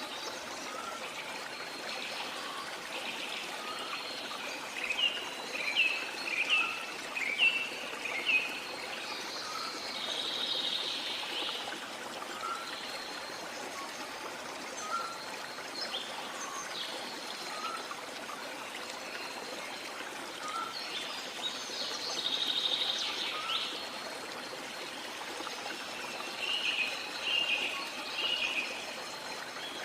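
Steady rush of running water with birds calling over it. A quick series of chirps, the loudest sounds, comes about five to eight seconds in and again near the end, while a soft short note repeats every second or so and a couple of buzzy trills rise above the water.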